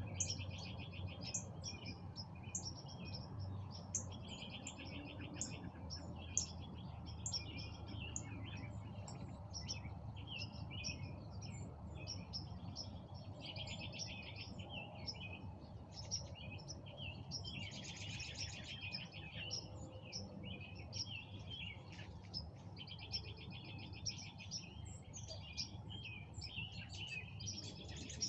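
Several songbirds chirping and trilling at once, with quick runs of repeated notes overlapping throughout and a busier burst of song about two-thirds of the way in. A steady low rumble runs underneath.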